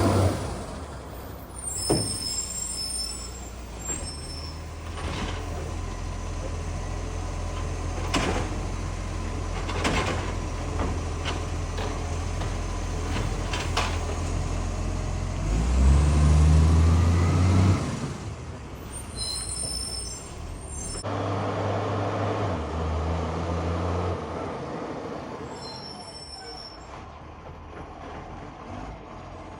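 Side-loader garbage truck's diesel engine running with a loud exhaust leak. It revs up louder about halfway through and again a few seconds later, with several sharp clanks and a few short high squeals along the way.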